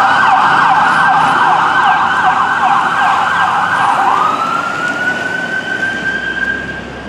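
Responding emergency vehicle's electronic siren in a fast yelp, about three sweeps a second, switching about four seconds in to a single slow rising wail that cuts off near the end. It grows fainter as the vehicle moves away.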